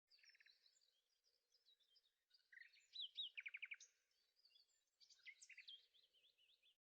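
Faint songbirds chirping and warbling, with a fast rapid trill about three seconds in; the sound cuts off suddenly at the end.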